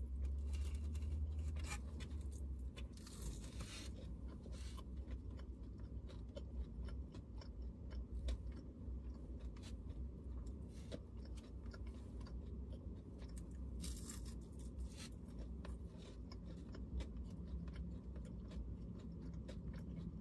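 Close-up chewing and crunching of dry food eaten by hand, with irregular crisp bites and clicks throughout. A steady low hum runs underneath.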